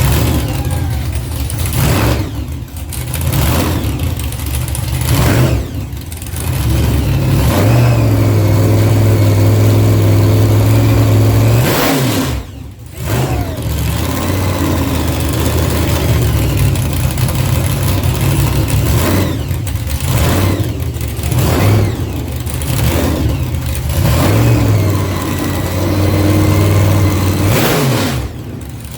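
Car engine revving and accelerating, with repeated short drops in sound between pulls.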